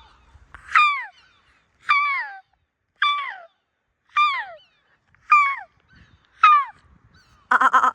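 Gull calls: six short cries, each sliding down in pitch, repeated at an even pace about once a second. A harsher honking call comes in near the end.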